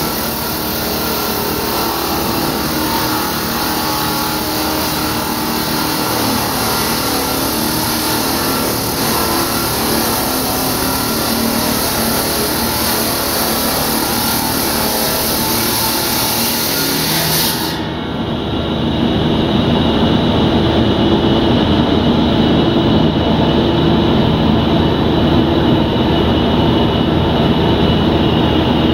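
Concrete-cutting saw running steadily with a dense mechanical hum. About 18 seconds in, the high hiss cuts off abruptly and a louder, lower hum takes over.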